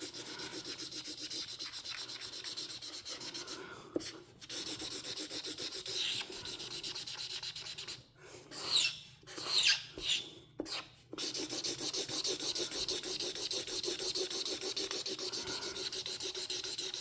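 Marker tip scribbling on paper in fast back-and-forth coloring strokes, with a few short pauses and some louder, squeakier strokes about halfway through.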